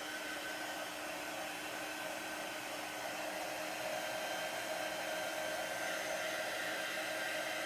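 Handheld hair dryer running steadily to dry freshly applied chalk paste: a steady blowing hiss with a faint, even motor tone.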